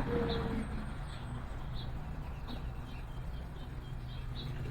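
Small songbird chirping repeatedly, short high chips about twice a second, while a dove gives a low coo right at the start.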